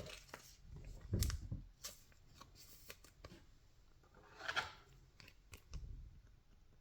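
Baseball trading cards handled by hand, sliding against one another as they are flipped through: soft scrapes and small clicks, with slightly louder rustles about a second in, past the middle and near the end.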